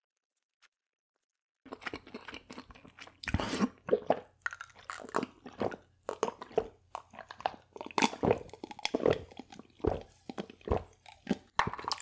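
Close-up eating of crunchy fried food: crisp bites and repeated crunching chews, starting about two seconds in.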